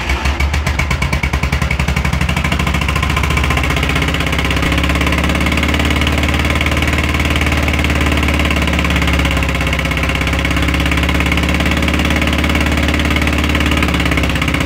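Volkswagen Fusca (Beetle) air-cooled flat-four engine running at idle with a strong, rapid beat in the first couple of seconds, then running steadily. It carries an unidentified engine noise that the owner asks about, in an engine that had sat unused for a long time.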